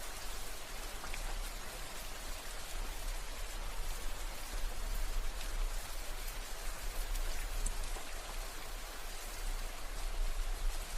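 Steady rain falling, a dense even hiss of drops with scattered individual drop ticks on a surface.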